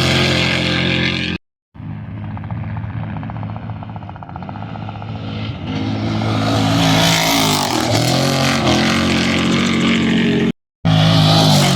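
Off-road race vehicle engines running at speed: the sound eases off for a few seconds, then builds again as another vehicle comes close, its pitch dropping as it goes by. The sound cuts out briefly twice.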